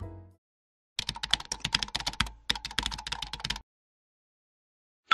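Computer keyboard typing: a quick run of key clicks, about ten a second, with a short pause midway, used as an end-screen sound effect. The tail of background music fades out just before it.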